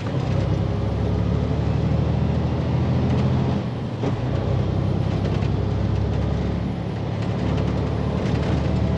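Diesel engine of a day-cab semi tractor running under way, heard from inside the cab. Its note changes briefly about four seconds in and again near seven seconds.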